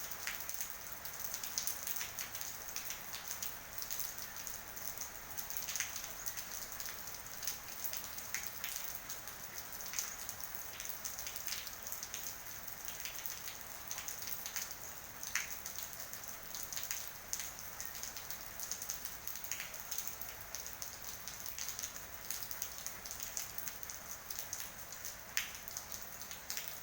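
Steady rain falling: an even hiss with many irregular sharp taps of drops landing.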